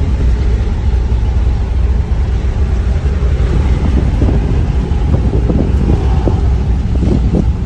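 Wind buffeting the microphone as a steady low rumble, with a few faint, brief sounds over it.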